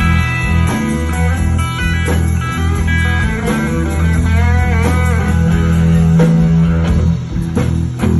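Live blues-rock band in an instrumental break: an electric lead guitar solo with bent notes over a steady bass line.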